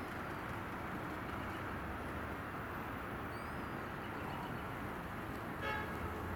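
Steady low outdoor rumble of a passing electric commuter train and distant traffic. A short horn toot sounds about five and a half seconds in, and faint bird chirps come through above it.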